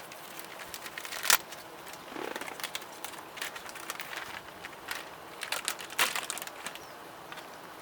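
Wood fire crackling in a Solo Stove Campfire wood-burning stove, irregular snaps and pops with two louder cracks, one just over a second in and one about six seconds in.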